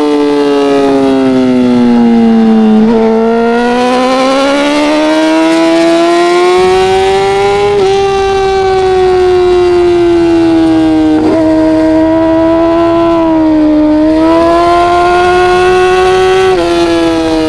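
Racing motorcycle engine running hard on track. Its pitch falls for the first couple of seconds under braking, then climbs again, with several quick steps in pitch at gear changes.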